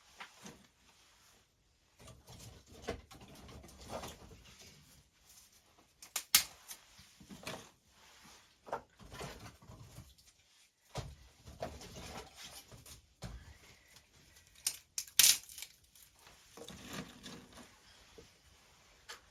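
Firewood being handled and laid into a fireplace: irregular wooden knocks and clatters with rustling and shuffling, the sharpest knocks about six seconds in and again near fifteen seconds.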